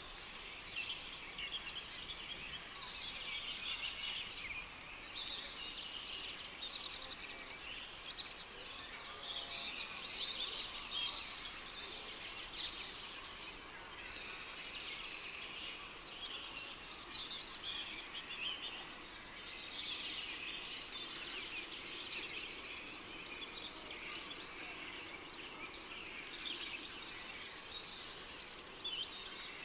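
Tropical rainforest night-chorus ambience: a cricket chirping in a steady, high-pitched pulse about three times a second, falling silent for a couple of seconds near the end, over a dense chatter of other insect and bird calls.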